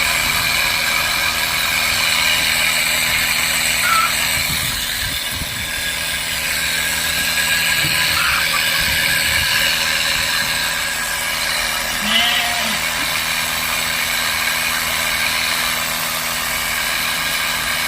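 Small engine of a motorized pesticide sprayer running steadily at an even pitch, powering the hose used to spray goats for external parasites.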